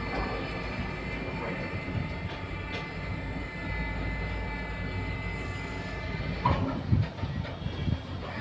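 Machinery running: a steady low rumble with whining tones, with a few knocks about six and a half to seven seconds in.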